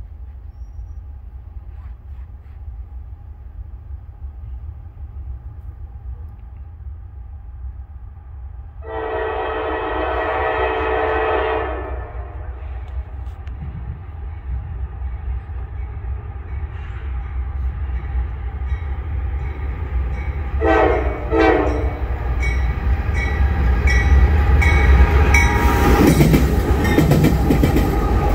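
Approaching Norfolk Southern freight train: the lead locomotive's air horn sounds one long blast about nine seconds in and two short blasts about ten seconds later. The diesel engines' rumble grows steadily louder until the locomotives pass near the end, with wheels clattering over the rails.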